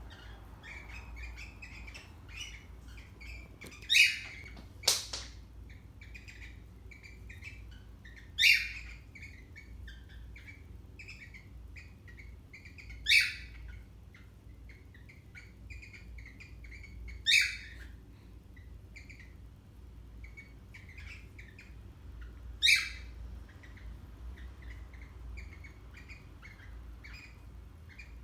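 Parrots chattering in a steady stream of short chirps, broken by a loud shrill call about every four to five seconds, with a single sharp click about five seconds in.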